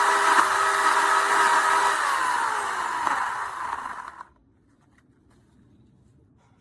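WEN CP1014 corded electric chainsaw running at full speed with a steady whine. About two seconds in its pitch starts to fall as the motor winds down, and it stops just after four seconds.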